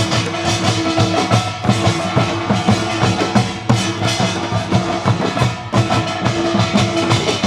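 Korean folk percussion ensemble playing a fast, dense drum rhythm, with a held melodic line sounding over the beat.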